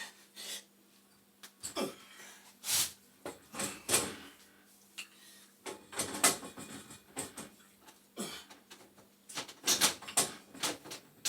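Irregular clinks and knocks of metal hand tools on a boiler's gas valve piping as wrenches are fitted and worked on the fittings, over a faint steady hum.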